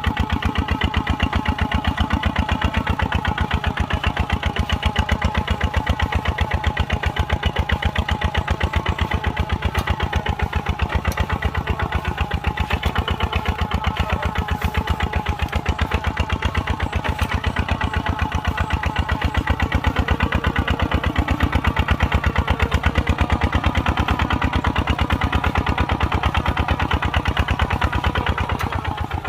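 Kubota RT140 walk-behind tractor's single-cylinder diesel engine running steadily, with a fast, even beat of firing pulses.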